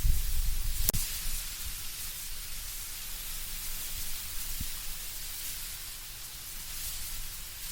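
Wind moving through autumn trees: a steady hiss of rustling leaves. A low gusty rumble eases off in the first second or so, and there is a single sharp click about a second in.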